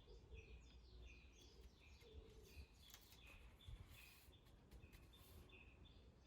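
Faint bird chirping: short high notes repeated steadily about twice a second.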